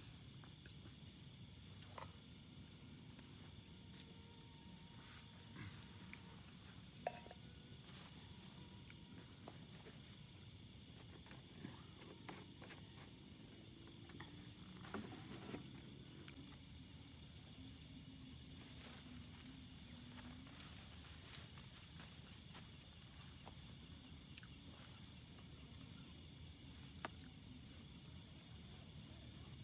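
Faint, steady, high-pitched insect chorus, with a few scattered small clicks and knocks, the sharpest about seven seconds in.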